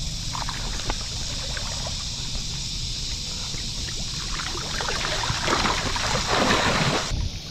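Wind rumbling on the microphone, with water splashing that builds about four and a half seconds in and cuts off abruptly near the end.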